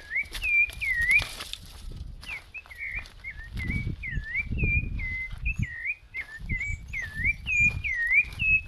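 Rufous-bellied thrush (sabiá-laranjeira) singing: a run of short, swooping whistled notes, about two or three a second, with a low rumble in the middle.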